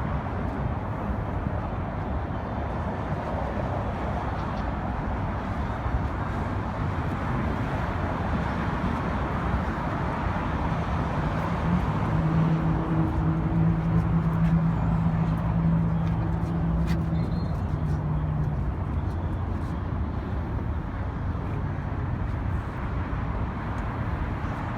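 Steady outdoor background noise at a car gathering, with vehicles and distant voices. A steady engine hum stands out for about six seconds in the middle.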